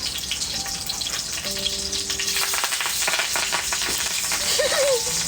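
Meat rolls wrapped in xương sông leaves frying over a wood fire: a steady crackling sizzle with many small pops.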